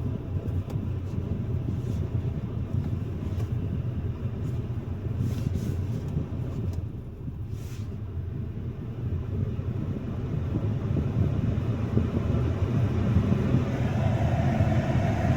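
2025 Mazda CX-5 idling after a cold start, heard from inside the cabin as a steady low rumble together with the climate-control fan.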